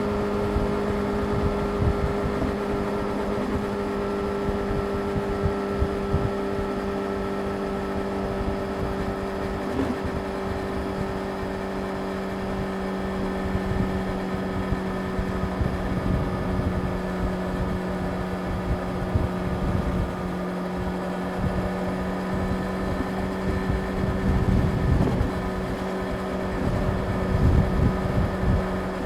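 Yamaha YZF-R6 inline-four engine cruising at steady high revs, a constant whine with its harmonics, under the low rumble of wind buffeting the microphone, which grows louder near the end.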